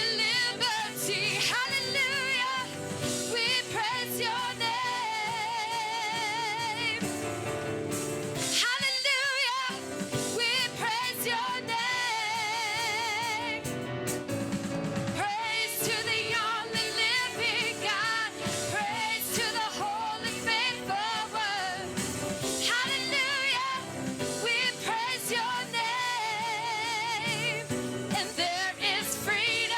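Gospel worship song: a singer holding notes with wide vibrato over instrumental accompaniment. The low accompaniment drops out briefly about nine seconds in.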